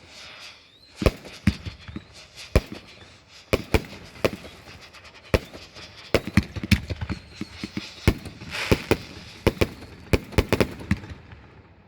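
Consumer fireworks going off: a dozen or more sharp bangs at irregular spacing, some in quick clusters, with a hissing rush about nine seconds in. The bangs stop shortly before the end.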